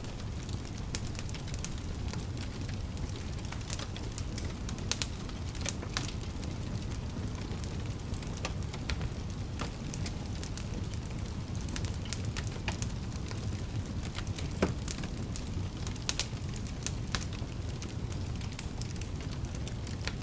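Wood fire burning in a fireplace: a steady low rumble of flames with irregular sharp crackles and pops, one louder pop about two thirds of the way through.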